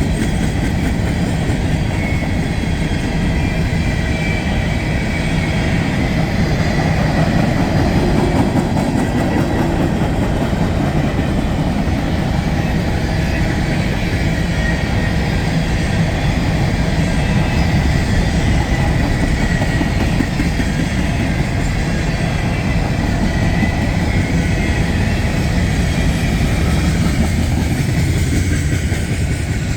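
CSX freight train M603 rolling steadily past, with the rumble and clickety-clack of its wheels over the rail.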